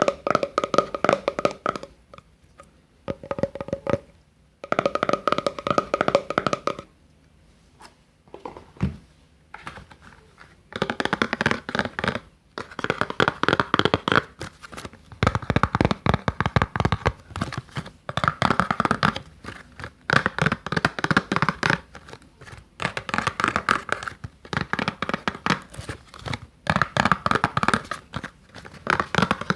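Close-up ASMR handling sounds: runs of quick crackly tapping and rubbing, each run about one to two seconds long, separated by short pauses.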